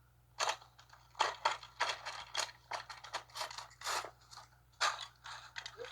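Plastic toy dollhouse being broken apart by hand: an irregular run of short cracks, crunches and scrapes, several a second.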